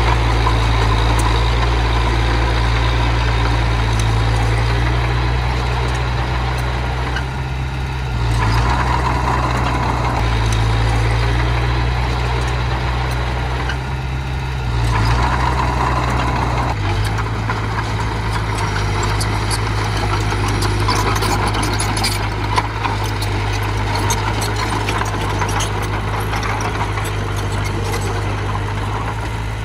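Diesel engine of a small earthmoving machine running steadily under varying load, dipping briefly about 7 and 14 seconds in and picking up again. A single sharp knock comes about two-thirds of the way through.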